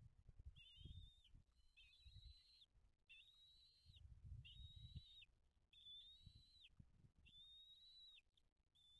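A bird giving a series of high, thin, drawn-out calls, about seven of them, each under a second and spaced a little over a second apart, with low rumbling underneath.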